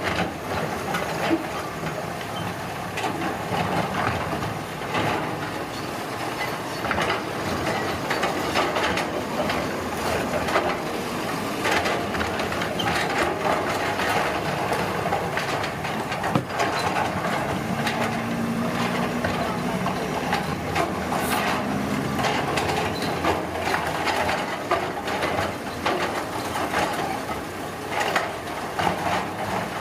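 Road construction machinery at work: a steady mechanical din full of frequent knocks and scrapes, with an engine note standing out for a few seconds about two thirds of the way through.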